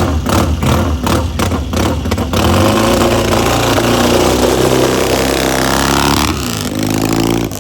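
Rickman Metisse scrambler's single-cylinder engine running. It goes in rough pulses about three a second, then about two seconds in settles into a smooth note that rises in pitch as the bike pulls away. The note shifts about six seconds in and drops away near the end.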